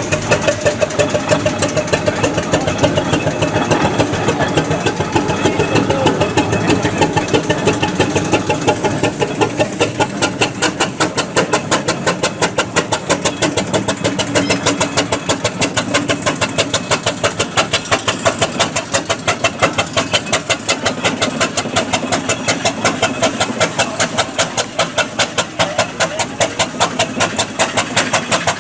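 Vintage engine running steadily, with a regular beat of sharp pulses several times a second.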